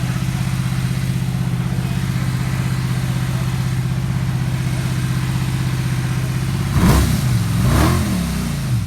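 Car engine idling steadily, then revved twice in quick succession near the end, the pitch rising and falling with each blip.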